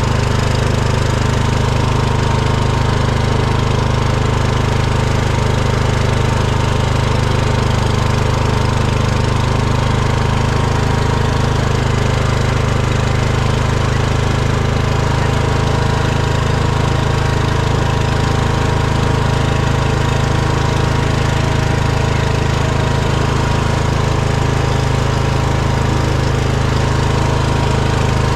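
Small engine running steadily at a constant speed, a loud, even hum with no change in pitch, as from a farm vehicle being driven.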